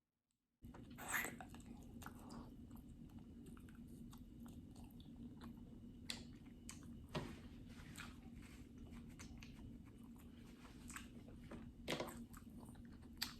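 Close-miked chewing and biting of seafood-boil food: wet chewing with scattered sharp crunches and clicks, the loudest just over a second in and around twelve seconds in. A steady low hum runs underneath.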